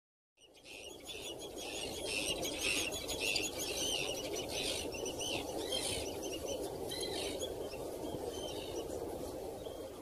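Birds calling: many short, high chirps in quick succession over a steady low background rush, starting about half a second in.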